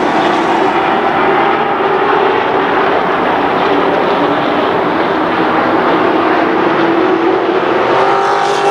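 Race truck engines running at speed on an oval track, a steady loud drone whose pitch sags slightly and climbs again near the end.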